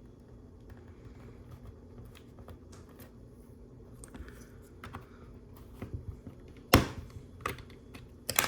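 Plastic LEGO pieces being handled and pressed together: scattered light clicks, a sharper snap about seven seconds in and a few quick clicks near the end.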